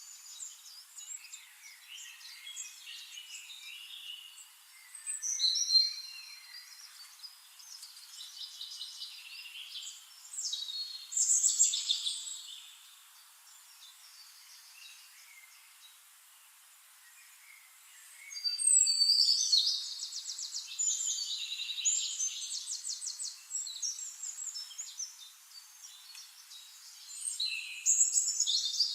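Several forest birds singing and calling, high chirps and fast trills. Louder phrases come about 6 and 11 seconds in, and a long run of rapid trilled song from about 19 to 25 seconds, with a quieter lull between.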